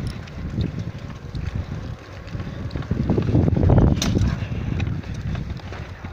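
Wind buffeting the microphone of a camera carried on a moving bicycle: a low, gusty rumble that swells and fades in waves, with a sharp click about four seconds in.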